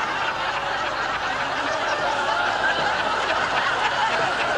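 Studio audience laughing after a punchline, a steady crowd laugh.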